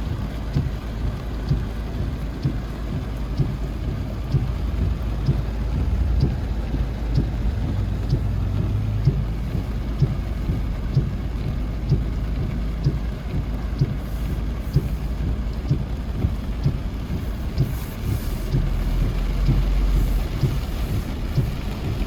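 Steady rain with a heavy low rumble, like wind buffeting the microphone, and a faint regular ticking throughout.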